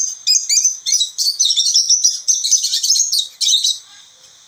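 Lovebird chattering: a rapid, unbroken run of shrill, high-pitched chirps and squeaks that thins out and turns fainter in the last second.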